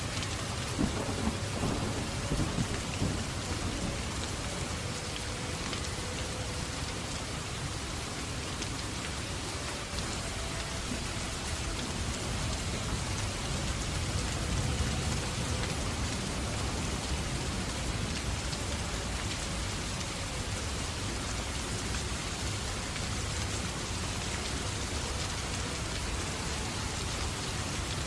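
Steady rain with low rumbling swells near the start and again midway, and a few sharp crackles from a fireplace fire in the first few seconds.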